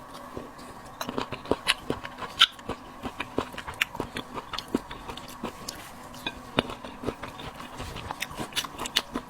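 Close-up chewing and biting of fresh, crisp sweet cherries: a steady run of small sharp clicks and crunches.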